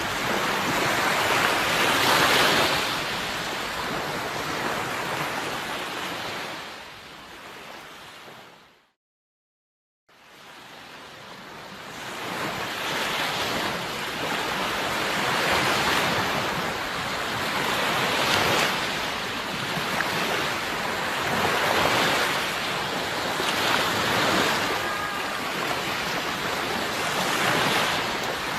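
Sea waves breaking and washing in, swelling and ebbing every few seconds. The surf fades down about six seconds in, drops to silence for over a second, then fades back up.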